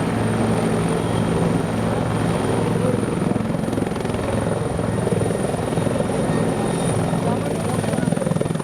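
Bell 412EP twin-turbine helicopter running steadily: a constant low drone with rapid rotor beating and a thin, high turbine whine.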